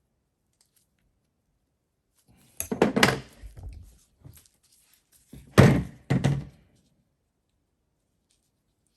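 Two short runs of heavy thunks and knocks, about three seconds apart, from starter motor parts being handled and knocked during a rebuild.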